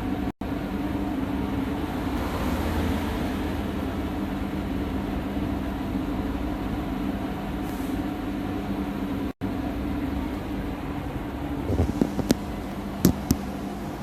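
DPF cleaning machine running steadily: its pump hums with a constant low tone as pressurised water flushes through a diesel particulate filter. A few sharp clicks come near the end.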